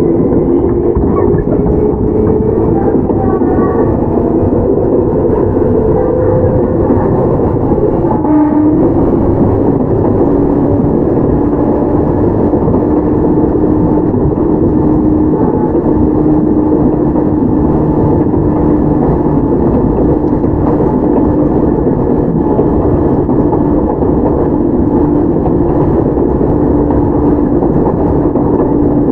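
Field-chopper-controlled electric train, a Toyama Chiho Railway 17480 series (ex-Tokyu 8090), running with rumbling wheel and rail noise and the clack of rail joints. A motor whine climbs slowly in pitch for the first eight seconds or so, then drops to a lower tone that holds steady.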